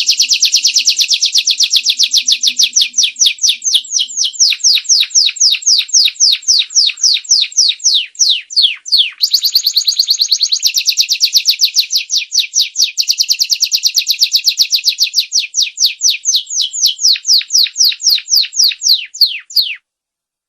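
Domestic canary singing a rapid trill of high, quickly repeated falling notes, several a second. It is played as a lure song to set other canaries singing. The trill has a brief break about nine seconds in and stops suddenly near the end.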